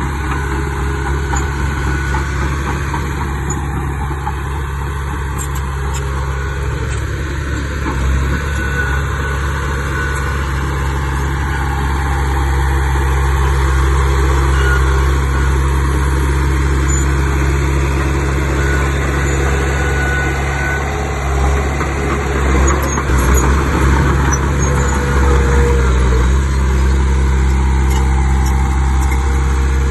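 Heavy diesel earthmoving machinery running steadily, its engine a constant low drone that grows somewhat louder about halfway through, with some uneven surges in the second half.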